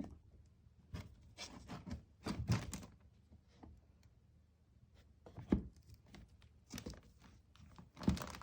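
Irregular thumps and knocks in a small room, strongest a little past halfway and again near the end, typical of a cat moving about inside and against a wooden shoe cabinet.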